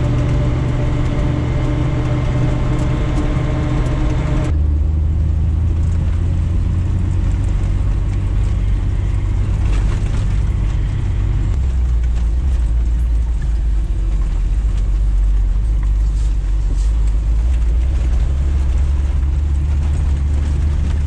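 Engine and road noise heard inside the cabin of a Suzuki Samurai being driven, a loud steady drone. The engine note changes abruptly to a lower pitch about four and a half seconds in, and drops lower again a little past halfway.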